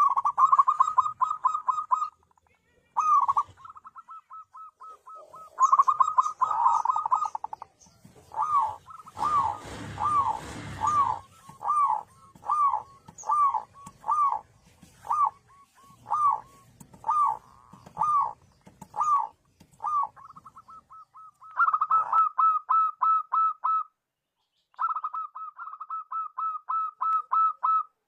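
Zebra dove cooing: runs of quick staccato notes, with a slower series of evenly spaced notes in the middle. A short burst of rustling noise comes about nine to eleven seconds in, and the calling breaks off abruptly a few times.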